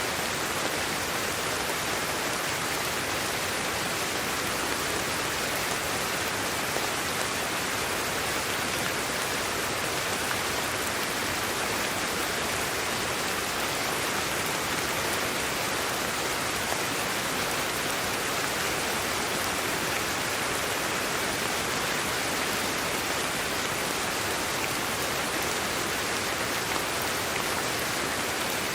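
Steady sleep-aid white noise: an even, unchanging hiss, strongest in the upper middle and thin in the bass.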